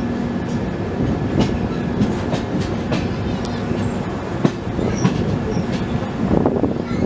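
Express passenger train running along the track: a steady rumble of the wheels with irregular sharp clicks as they pass over rail joints.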